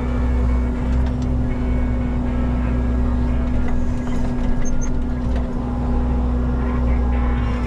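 Diesel engine of a Menzi Muck walking excavator running steadily under work, with a few knocks from the machine.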